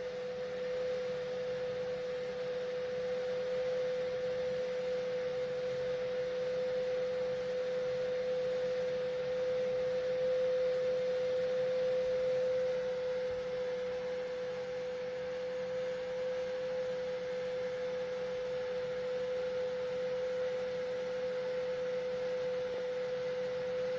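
A steady electronic tone at one unchanging pitch, held unbroken over a faint hiss.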